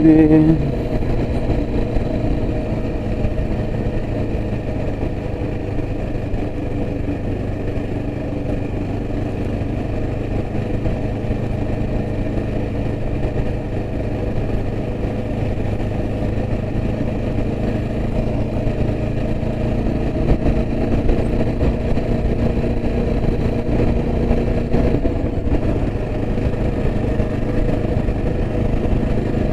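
Yezdi Adventure's single-cylinder engine running steadily while the motorcycle is ridden along the road at a constant pace.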